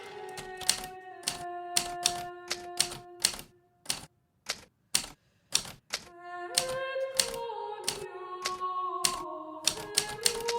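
Hermes Baby portable manual typewriter typing at an uneven pace, each key strike a sharp clack, over soft background music of held notes. Around the middle the music drops away for a couple of seconds and only a few single keystrokes are left.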